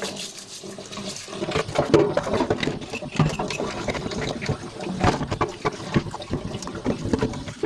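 Water running and splashing at a sink while things are washed by hand, with irregular knocks and clatter throughout.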